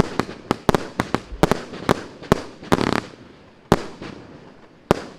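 Consumer fireworks cake of 1.2-inch shots (a 120-shot battery) firing. Sharp bangs come about four a second, with a brief crackling burst near three seconds in. The shots then thin out to two single bangs over the last two seconds.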